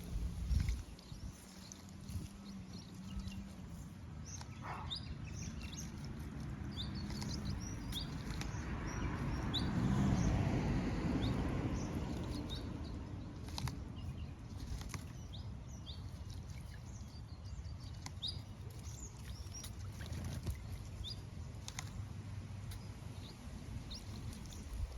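Birds chirping with many short, high calls scattered throughout. A rushing noise swells and fades about ten seconds in.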